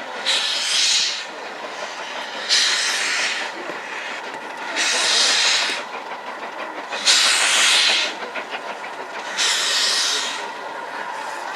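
Steam locomotive exhaust chuffing slowly: five loud hissing beats, evenly spaced a little over two seconds apart, over a steady rumble of the moving train.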